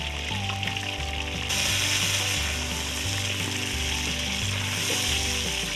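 Greens frying in hot oil in a large iron kadai, a dense steady sizzle that grows louder about a second and a half in, over background music with a steady bass line.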